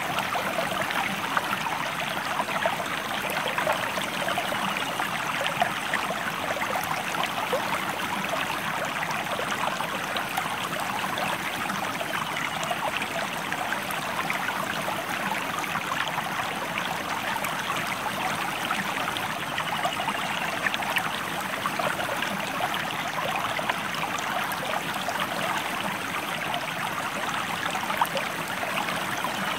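Stream flowing steadily: an even rush of water with many small splashes and trickles in it.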